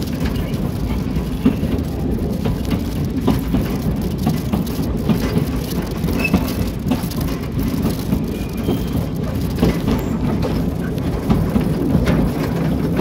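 Narrow-gauge train running along forest track, heard from the cab: a steady low rumble of the locomotive and its wheels on the rails, with scattered clicks and knocks.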